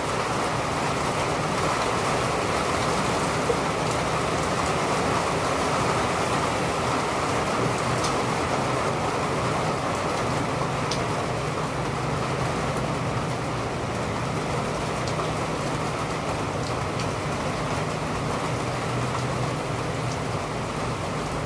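Steady rain falling on hard surfaces, an even hiss that holds level throughout, with a few single drops ticking and a faint low hum beneath.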